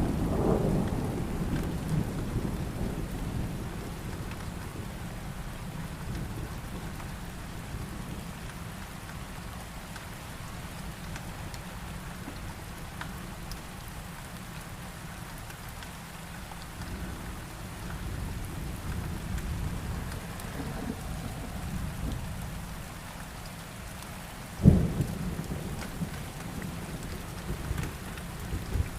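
Heavy rain falling steadily through a thunderstorm. A low thunder rumble dies away over the first few seconds, and a sharp clap of thunder about 25 seconds in is the loudest moment.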